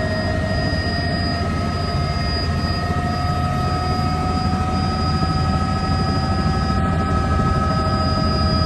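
Helicopter running: a steady heavy engine and rotor noise with a whine that slowly rises in pitch.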